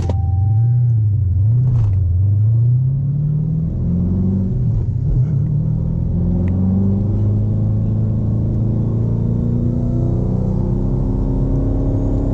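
Twin-turbo Hemi V8 of a Dodge Challenger Hellcat held at the line, its revs rising and falling a few times, then pulling away with its pitch climbing slowly and steadily. The new tune would not let it brake boost, so it launches without boost built.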